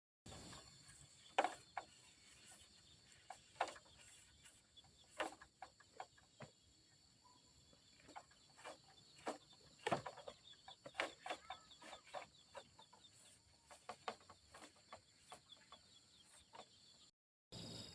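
Chickens clucking, heard as many short, sharp, irregular sounds, with a faint steady high-pitched drone behind them.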